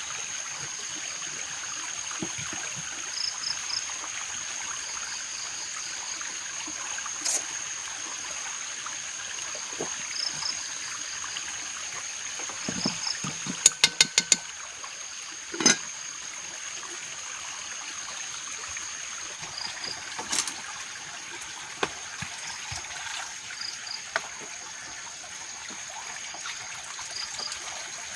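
Water trickling steadily, with a thin steady high tone throughout and faint short chirps now and then. Around the middle comes a quick run of four sharp clicks, then a single knock.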